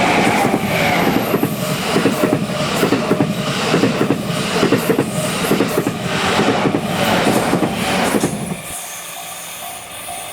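A Chuo Line electric train passing close by, its wheels clacking rhythmically over the rail joints. The last car clears a little before the end and the sound drops off sharply, leaving the level crossing's warning bell ringing in a steady repeated beat.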